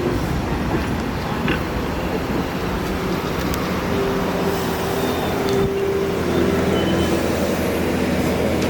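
Staten Island Railway train at the station, running with a steady mechanical hum and several held tones; the sound gets slightly louder toward the end.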